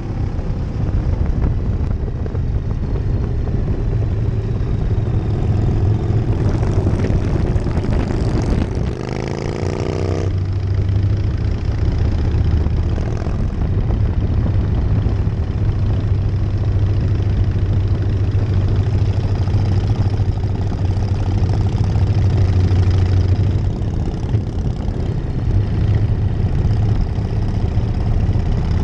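A 1999 Harley-Davidson Night Train's V-twin engine running steadily while under way. About a third of the way in it revs up in a rising pitch, then drops back to a steady pull.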